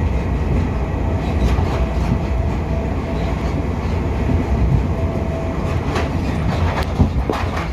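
Passenger train running at speed, heard from inside the carriage: a steady low rumble of wheels on the track, with a faint hum that comes and goes. A few sharp clicks come near the end.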